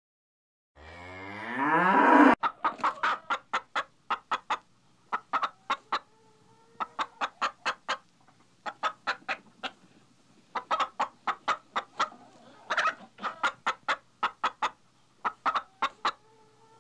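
A short moo from a cow, rising in pitch and cut off abruptly, then chickens clucking: quick runs of sharp clucks, about five or six a second, separated by short pauses.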